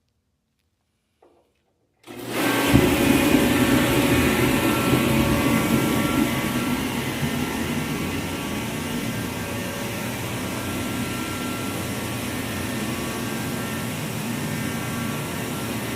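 Reddy Heater Pro 150 kerosene forced-air torpedo heater starting up: the fan motor and burner come on suddenly about two seconds in, loudest at first, then settle to a steady run. After a new nozzle was fitted, the heater now starts and stays lit.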